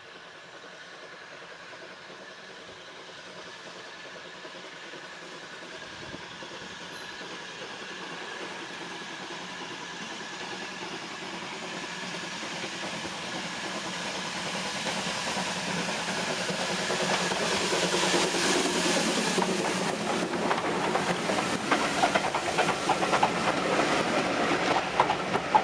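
Train approaching along a heritage railway line, growing steadily louder, with wheels clicking over the rail joints in the last several seconds.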